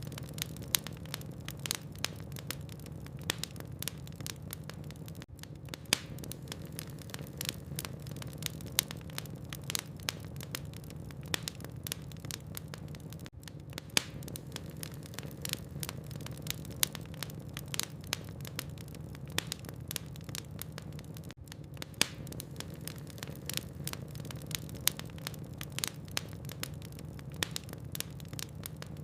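Burning logs crackling in a fireplace: irregular sharp pops and snaps, several a second, over a low steady hum.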